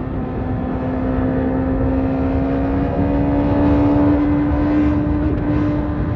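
BMW S1000RR inline-four engine running through an Akrapovic carbon exhaust, held at fairly high revs with its pitch slowly rising.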